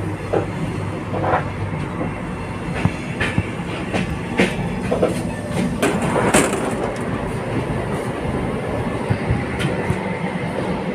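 Running noise heard inside a moving Chennai–Bangalore AC double-decker passenger coach: a steady low rumble with irregular clacks and knocks of the wheels over the rails, the sharpest about six seconds in.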